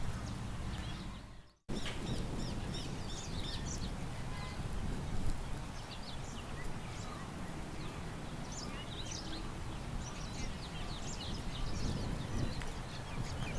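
Small birds chirping and twittering over a steady low wind rumble. About a second and a half in, the sound briefly fades out and cuts straight back in.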